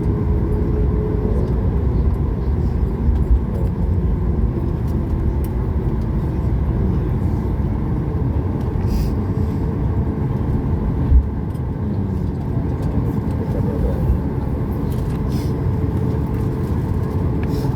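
Steady low rumble inside the cabin of a Boeing 737 MAX 8 taxiing after landing: the engines at idle and the wheels rolling on the taxiway. A small bump about three seconds in and a sharper thump about eleven seconds in.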